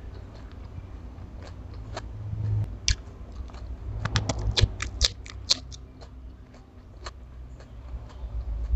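Close-miked eating: biting and chewing with sharp crunchy clicks and mouth noises, coming thickest from about four to five and a half seconds in, over a low steady hum.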